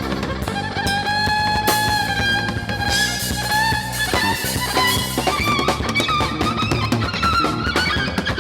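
Live Afro-fusion band playing an instrumental passage: a lead line of long held, bending notes over a drum kit and bass groove.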